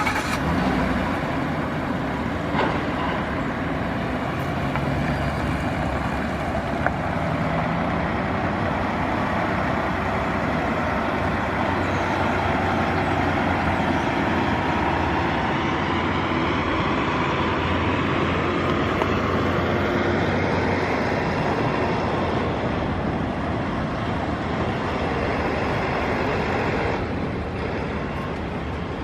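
Ford F-150 pickup truck running steadily, with a continuous engine and vehicle noise.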